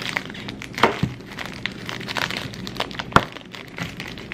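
A dog crunching and gnawing on a raw bone, with scattered sharp cracks and a louder crack about three seconds in.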